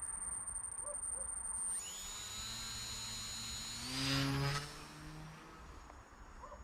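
Tiny 7500 kV brushless motor of a micro balsa RC plane running at full throttle with a high-pitched whine that rises in pitch about two seconds in, holds steady, climbs again and briefly gets louder near the four-second mark, then fades away.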